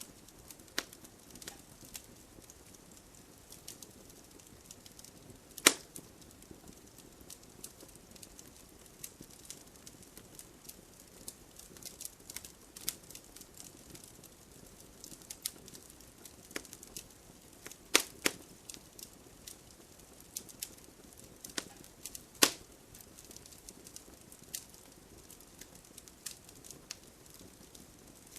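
Wood fire in a fireplace crackling: irregular small snaps and pops over a faint low hiss of burning, with three louder pops standing out, the first about six seconds in and two more in the second half.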